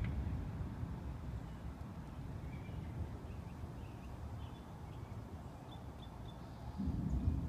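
Low rolling thunder dying away, with short high bird chirps over it; another low rumble swells up near the end.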